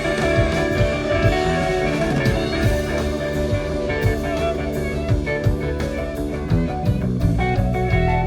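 Live rock band playing an instrumental passage: guitar lines over a steady drum-kit beat.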